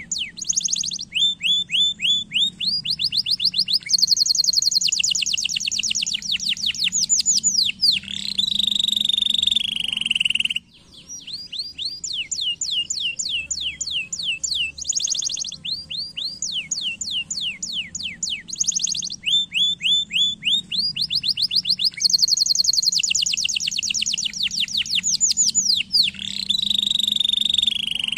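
Domestic canary singing a long song of rapid trills: fast runs of repeated down-sweeping notes that change phrase every second or two, each run ending in a lower drawn-out roll. The same song breaks off briefly about ten seconds in and plays again.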